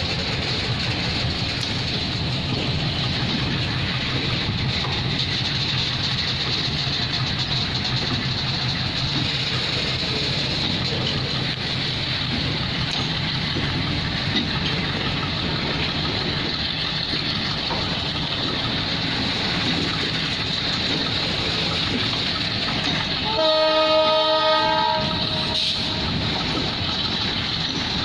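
A long freight train of loaded covered goods wagons rolling past, its wheels on the rails making a steady rumble with clickety-clack. About 23 seconds in, a train horn sounds once for about two seconds.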